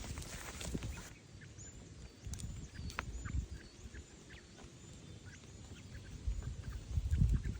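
Faint, thin, high-pitched chirps of small birds repeating every half second or so, over low rumbling noise that swells loudest near the end.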